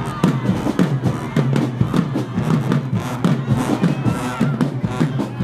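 Marching band playing with a heavy drum beat, bass drums and snares driving a rapid rhythm under the horns, with crowd voices mixed in.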